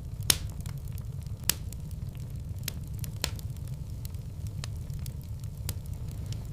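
Wood fire in a fireplace burning with a steady low rumble, sharp pops and crackles at irregular moments, the loudest just after the start and about a second and a half in.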